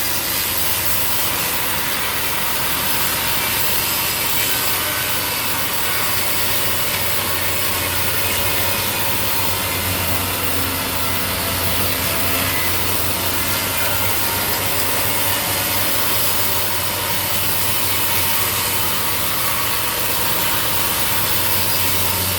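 Sawmill blade cutting steadily through a log, a continuous rasping hiss over the steady low hum of the mill's engine.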